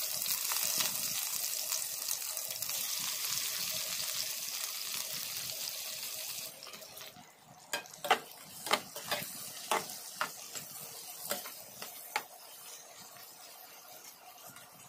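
Food sizzling in a hot pan, a steady hiss that cuts off abruptly after about six seconds, followed by a spoon knocking and scraping against the pan a dozen or so times while stirring.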